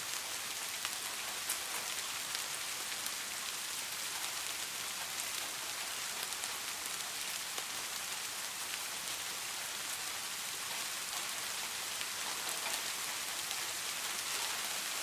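Steady rainfall, an even hiss with many small drops ticking on a surface.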